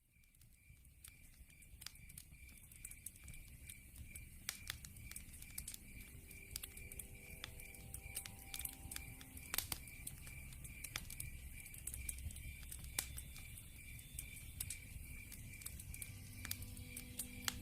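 Wood fire crackling with irregular sharp pops over a low rumble of flames, fading in from silence at the start, with a steady high pulsing insect trill like crickets running throughout.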